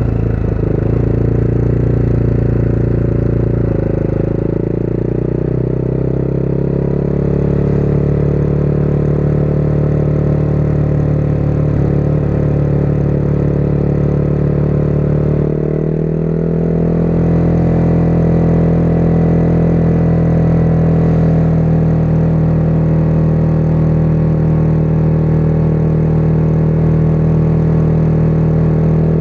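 Motorcycle engine running steadily while riding along at cruising speed. Just over halfway through the engine note dips briefly, then carries on slightly higher and louder.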